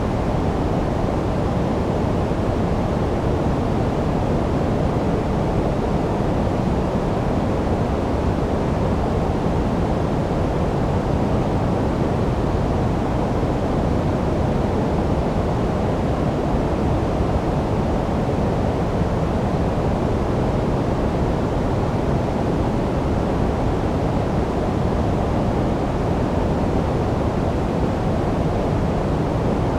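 Steady generated noise from a sleep-noise track, even and unchanging, with most of its weight in the low end and only a faint hiss up high.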